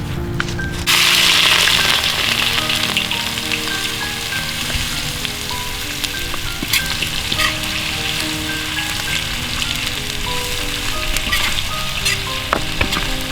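Food frying in hot oil: a loud sizzle starts suddenly about a second in and carries on with scattered crackles and pops. Background music plays throughout.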